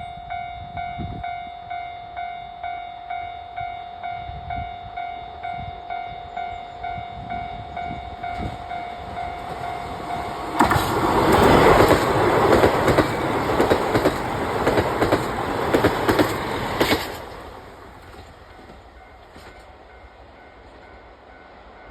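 Japanese level-crossing alarm bell ringing about twice a second, then a KiHa 183 diesel limited express train passing over the crossing about ten seconds in. The train is loud for some six seconds, its wheels clacking over the rail joints, then fades quickly.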